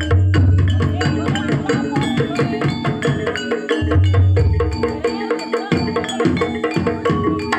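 Javanese gamelan-style dance accompaniment: rapid, evenly repeated strikes on ringing pitched metal keys, with deep low strokes at the start and again about four seconds in.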